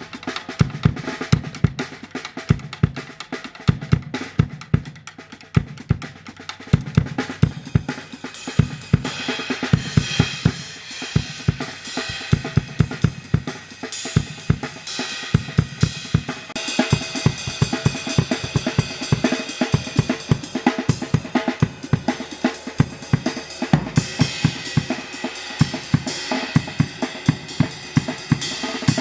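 Drum kit playing a steady groove over a keyboard backing track: kick drum, snare, hi-hats and Meinl cymbals. The cymbal and hi-hat wash gets busier about eight seconds in, and again about halfway through.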